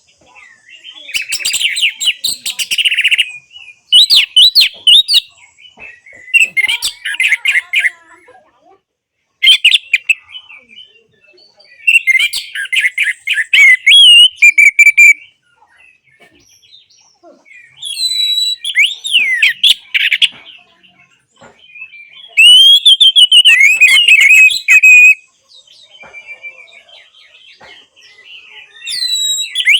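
Orange-headed thrush singing: phrases of rapid, varied whistles and glides, a second or three each, broken by short pauses.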